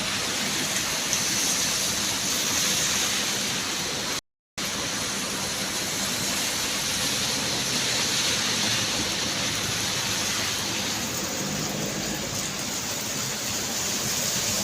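Heavy rain falling in a steady downpour, with a short break of silence about four seconds in.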